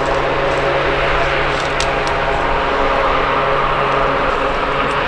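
Aircraft engines running steadily at close range: a loud, even hum with a few fixed droning tones.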